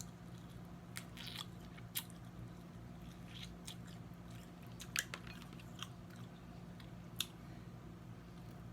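Snow crab legs being eaten close to the microphone: scattered sharp cracks and snaps of shell, the strongest about two, five and seven seconds in, with chewing between. A steady low hum runs underneath.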